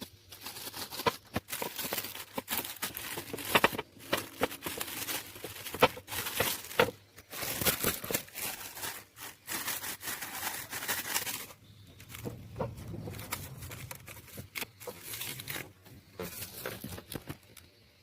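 Close handling noises: irregular clicks, taps and rustling, quieter for a couple of seconds around the middle of the second half.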